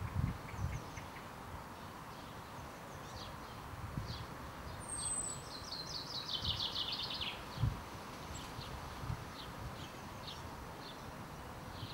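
Small songbirds calling, with scattered short chirps and a fast trill that falls in pitch about six seconds in. A few dull low thumps come through underneath.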